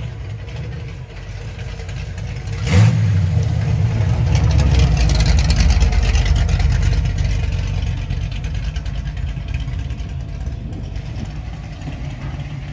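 Classic Mercury Cougar's V8 revving hard about three seconds in and staying loud as the car drives past, then easing off to the steady sound of other classic cars idling and rolling in.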